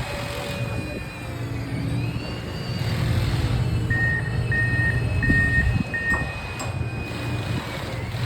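Semi truck's diesel engine running with a steady low rumble. Four short, evenly spaced high-pitched beeps sound near the middle.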